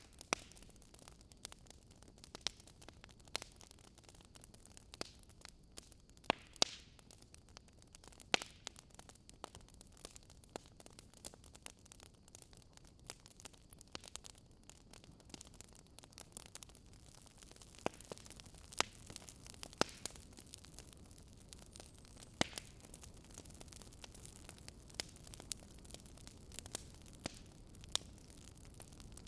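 Wood fire crackling: irregular sharp pops and snaps over a faint steady hiss, with a handful of louder pops scattered through.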